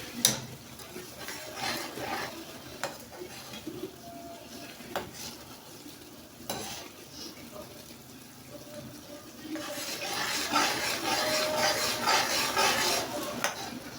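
Blended pepper-and-onion sauce frying in hot oil in a pot, with a spoon stirring and clinking against the pot now and then. About ten seconds in, a much louder hissing starts and runs for about three seconds.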